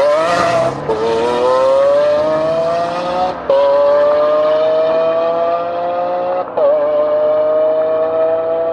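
Mercedes-AMG GT S twin-turbo V8 with an ASG aftermarket exhaust accelerating hard through the gears: the engine note climbs steadily, drops at an upshift and climbs again, three shifts in all, about 1, 3.5 and 6.5 seconds in.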